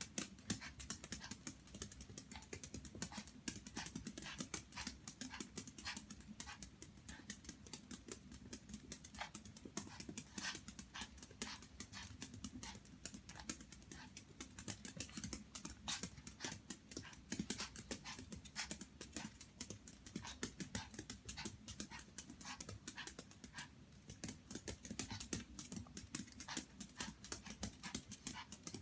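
A Chihuahua spinning and playing with a toy: a dense, irregular patter of small clicks and taps throughout.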